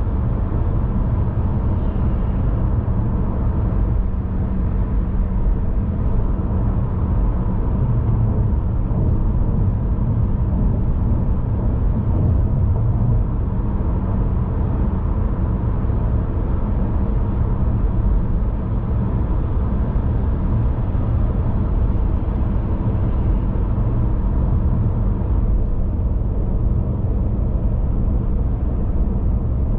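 Steady low rumble of a car being driven, road and engine noise holding even with no changes.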